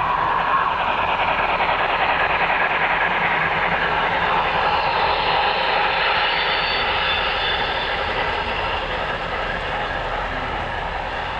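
HO scale model train running past on the layout: a steady whirring rush of wheels on rail and motor, easing off slightly near the end.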